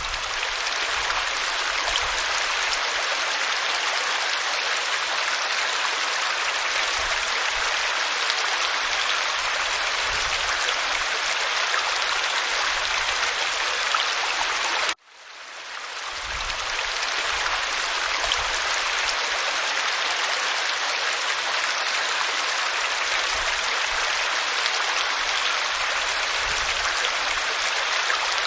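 Waterfall pouring onto rock, a steady dense rush of falling water. About halfway through it cuts out for an instant and fades back in, like the seam of a looped recording.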